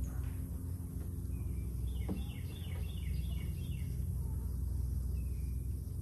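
A songbird sings a quick run of short falling chirps about two seconds in, with a fainter chirp later, over a steady low background rumble.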